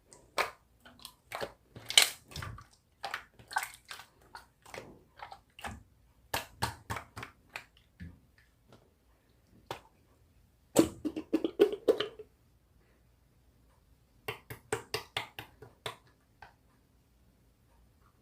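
Slime being squeezed and pressed by hand, giving irregular wet clicks and pops, with a dense cluster about two-thirds of the way through and a brief pause before a last run of clicks.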